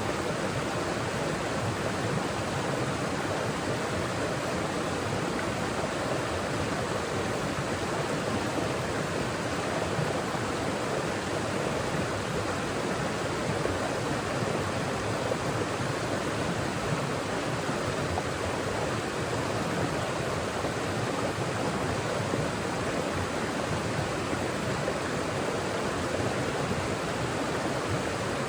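Mountain forest stream flowing: a steady rush of water over rocks.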